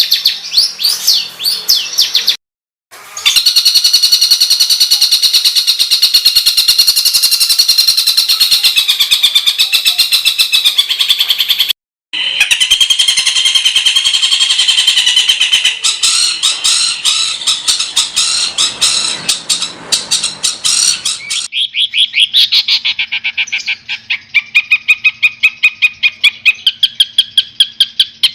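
Songbird masteran recording: fast, harsh, rattling rapid-fire notes repeated in long dense runs. This is the 'tembakan kasar' song used to tutor competition songbirds. It is broken by two brief silent cuts, about two and a half and twelve seconds in.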